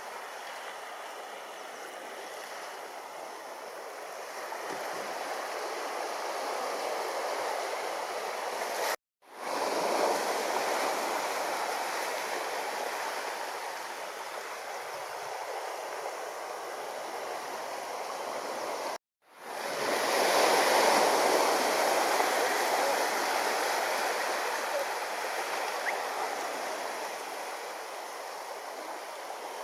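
Ocean surf washing ashore as a steady rush that swells and eases over several seconds, in three stretches split by brief cuts to silence about 9 and 19 seconds in.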